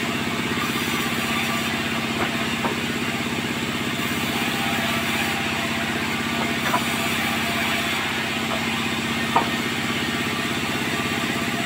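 Sawmill machinery running with a steady engine-like drone, broken by a few short knocks, the loudest about nine seconds in.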